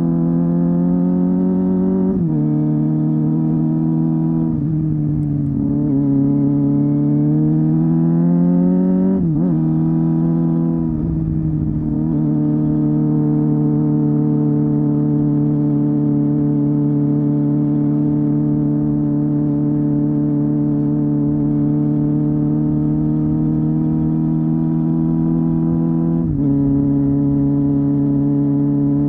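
Honda Hornet 250's 249 cc inline-four exhaust under way. The engine note drops sharply at gear changes about two and nine seconds in, rises as the bike accelerates between them, then holds a steady pitch while cruising before stepping up near the end.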